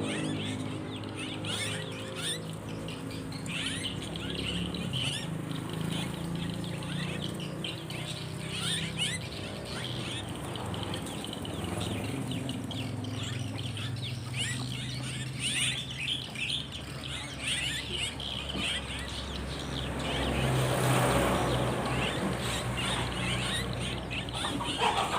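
Many small birds chirping and twittering in quick, overlapping calls, over a steady low hum.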